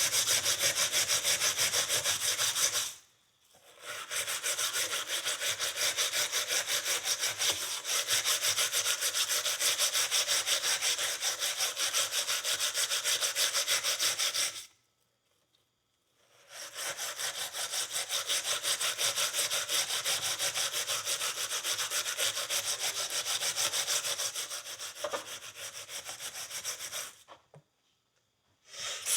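Steel wool scrubbed rapidly back and forth over a rusty steel horseshoe, scouring off rust and caked dirt. It comes in three stretches of quick, even rubbing strokes, broken by two short silences.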